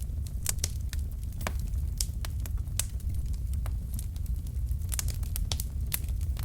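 Wood fire burning in a fireplace: logs crackling and popping irregularly, several sharp pops a second, over a steady low rumble of the flames.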